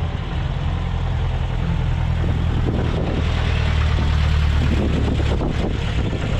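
Motor vehicle engine idling steadily, getting noisier for a few seconds in the middle.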